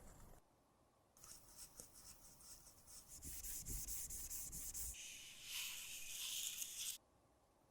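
Close-up scraping and rubbing as makeup product is worked, with many small ticks, in two stretches of different texture that cut off abruptly about seven seconds in.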